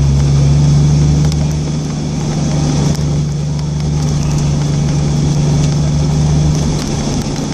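Jeep Wrangler engine running steadily under load while driving through deep snow, heard from inside the cabin as a low, even drone with tyre and road noise over it.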